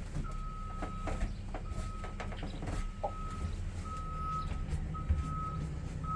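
A vehicle's reversing alarm beeping: a single steady high tone repeating about once a second, each beep about half a second long, starting just after the start. Under it a low steady rumble and a few light knocks.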